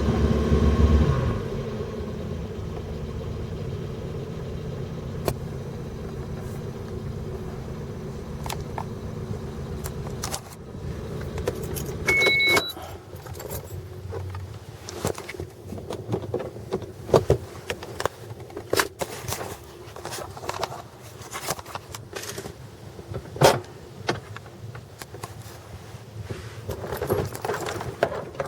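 Car engine running steadily, dying away about ten seconds in; the engine has a cylinder 2 misfire (code P0302). About twelve seconds in comes a short electronic beep, then scattered clicks and jingling like keys being handled.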